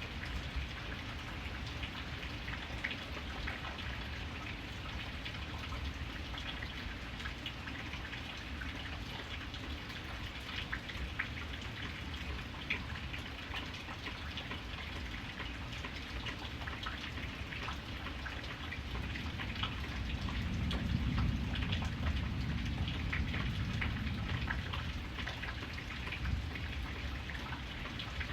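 Steady rain, with many individual drops ticking through an even hiss. A low rumbling layer swells louder for a few seconds about two-thirds of the way through, then eases.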